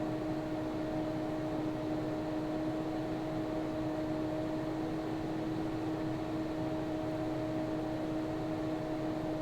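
Hot air gun of a soldering rework station blowing steadily, a constant rush of air with a steady two-note hum, while it heats the glass edge to soften the adhesive.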